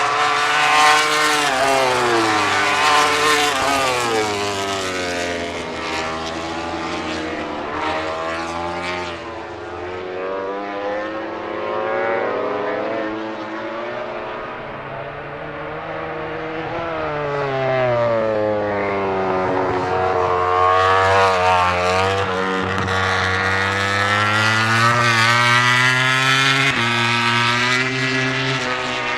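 MotoGP prototype racing motorcycles running at speed on a circuit. The engine pitch drops after a loud pass about a second in, then climbs in steps through the gear changes as a bike accelerates in the second half.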